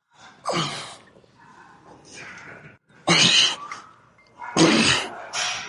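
A man grunting and exhaling forcefully with the effort of lifting weights, three loud grunts with quieter breaths between.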